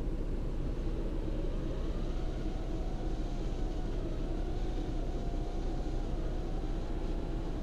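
Strong wind buffeting the microphone in a steady low rumble, with the faint whine of an FPV quadcopter's motors rising and falling in pitch as it flies.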